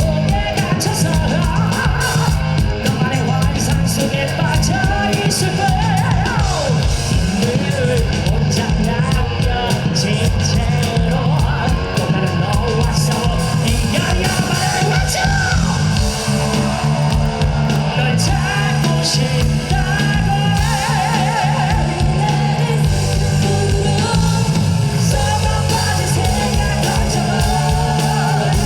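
Live rock band playing loudly and without a break: drums, bass and distorted electric guitars, with a high rock vocal over them.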